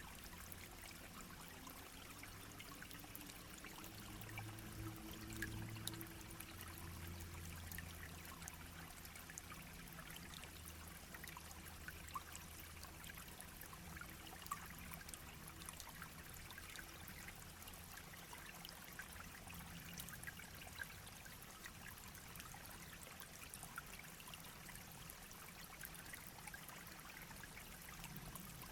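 A shallow brook babbling over stones: a steady faint rush of water with many small splashes and drips. A faint low hum sits under it and is strongest in the first several seconds.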